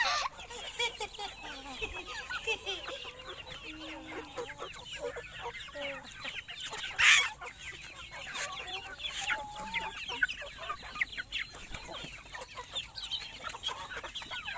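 A flock of chickens clucking and calling continuously, many short overlapping calls, with one louder, harsher burst a little before halfway through.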